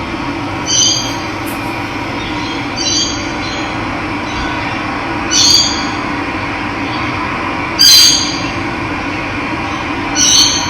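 Running water with a steady rushing sound, over which a bird gives a short, loud call five times, about every two and a half seconds.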